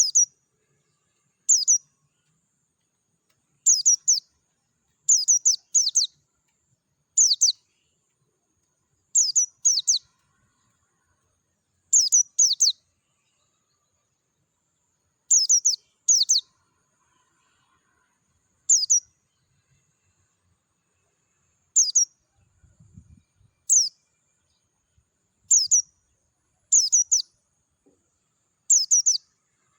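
A white-eye (pleci) calling: short, high chirps, each a quick downward sweep, given singly or in quick pairs every second or few, with pauses of a few seconds between some.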